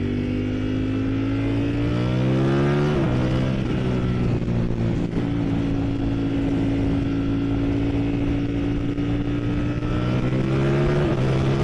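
Ducati Streetfighter V4 S's 1103cc V4 engine under way, heard through a helmet microphone. The revs climb for about three seconds and drop sharply with an upshift, hold steady, then climb again near the end, over a steady rush of wind and road noise.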